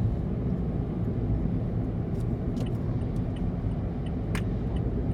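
Steady low rumble of a moving vehicle, with a few sharp clicks, one about four seconds in, and faint regular high ticks.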